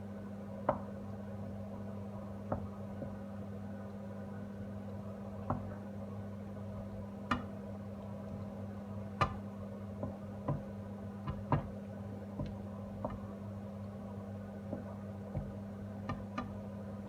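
Irregular sharp clicks and knocks of a cooking utensil against a pot of simmering tomato sauce, over a steady low hum.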